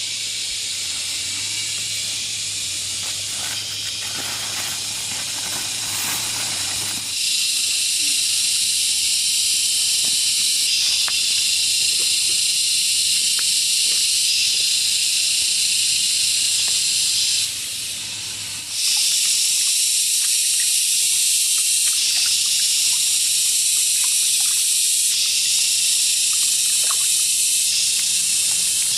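A steady, high-pitched hiss that grows louder about seven seconds in and drops away briefly around eighteen seconds, with a faint low hum beneath.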